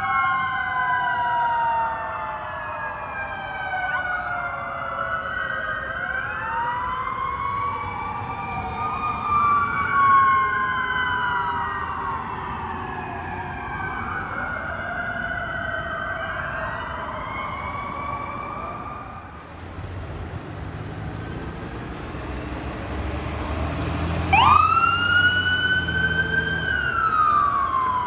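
Fire truck sirens: several wailing sirens rising and falling out of step with one another. Later a truck engine's rumble comes up, and near the end one siren sweeps up sharply and then slowly falls.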